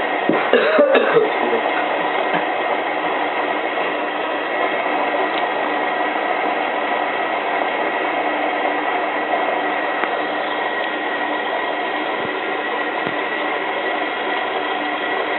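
Hotpoint 9534A washing machine filling with water at the start of a 95-degree boil wash: a steady rushing hiss.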